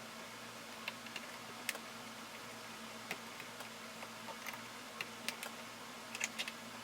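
Scattered light clicks and taps at an irregular pace, a short cluster near the end, from small parts and hand tools being handled during boat wiring work, over a faint steady hum.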